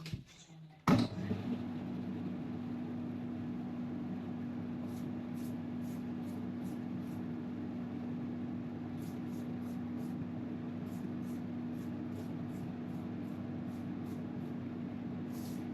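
Spray-booth extraction fan switched on about a second in with a sudden clunk, then running steadily with a constant hum and airflow noise.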